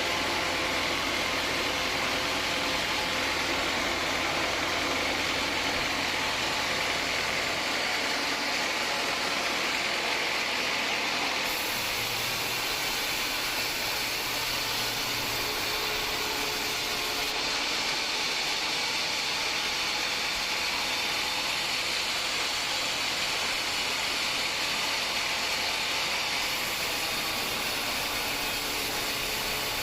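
Homemade band sawmill running with a steady, continuous machine noise.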